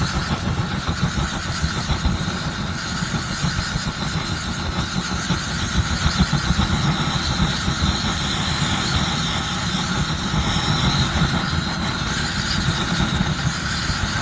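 Swiss army petrol vaporising burner (Benzinvergaser-Brenner) burning with a steady, flickering low rumble while it is still warming up.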